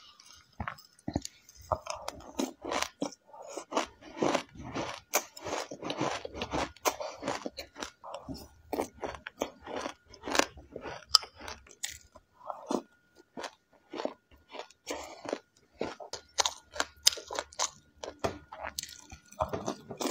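A person chewing a mouthful of crunchy mixed seeds, with quick crisp crunches that come several times a second without a break.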